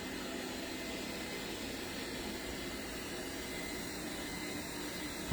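DeenKee DK700 robot vacuum running with its suction fan turned up a notch: a steady hiss with a faint, steady hum underneath.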